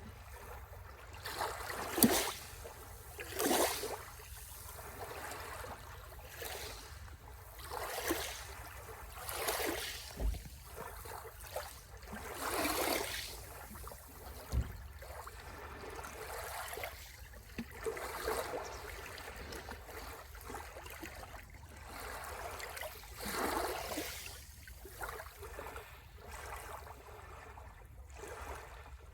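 Small sea waves washing and splashing onto the shore, one wash after another at irregular intervals of a few seconds, over a faint steady low rumble.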